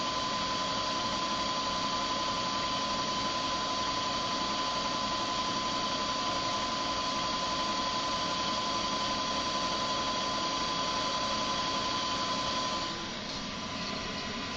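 Milling machine running steadily, a hum with a thin high whine, until it cuts off about 13 seconds in. A quieter steady hum carries on after that.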